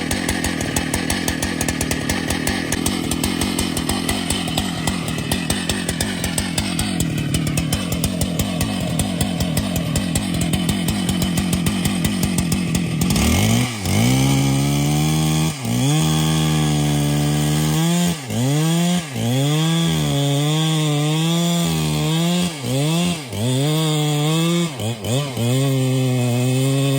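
Chainsaw running and cutting. For the first half it is a fast, dense rattle. About halfway through it becomes a steady high-revving engine note whose pitch repeatedly sags and recovers as the chain bites, with a few brief drops.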